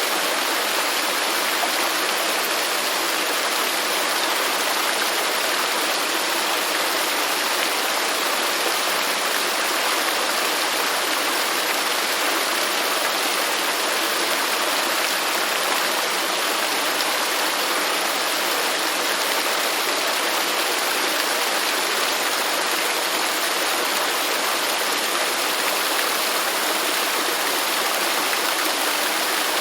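Waterfall: a steady, unbroken rush of falling water with an even hiss, strongest in the upper range.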